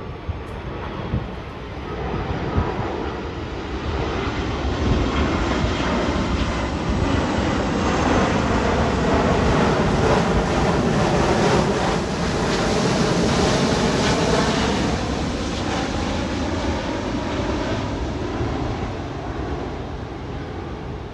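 Jet engines of a landing Airbus A330-343, its Rolls-Royce Trent 700 turbofans, passing by. The roar builds over the first few seconds, is loudest around the middle, then fades away.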